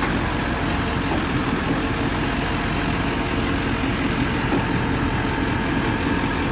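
Engine of a 1999 Ford F-450 crane truck running steadily, with the PTO engaged to drive the crane's hydraulic pump.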